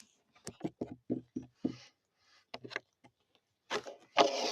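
A string of short, irregular squelches and clicks, then a louder rustle about four seconds in: hands working slime and its container.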